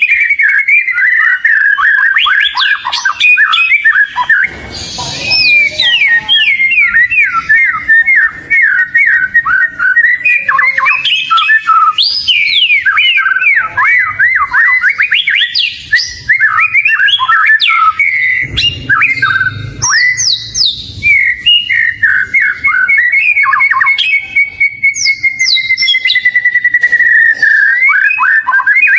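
Oriental magpie-robin (kacer) singing non-stop: a fast, varied stream of whistles and chirps, with one long drawn-out whistle sliding slightly down near the end.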